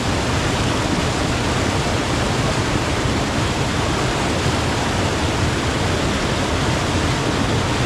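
Rushing water of a waterfall stream cascading over rocks: a steady, loud, even rush.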